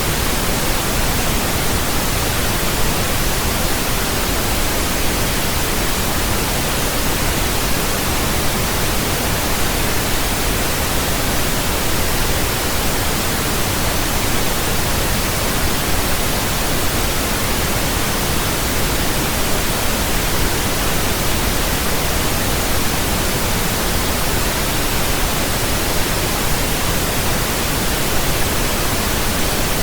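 Continuous pink noise: a steady, even hiss with a deeper low end than white noise, unchanging throughout.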